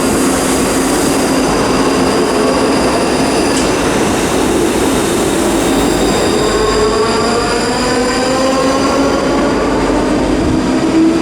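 ScotRail Class 334 electric multiple unit pulling away from the platform. Its traction motors give a whine that climbs in pitch from about halfway through as the train gathers speed.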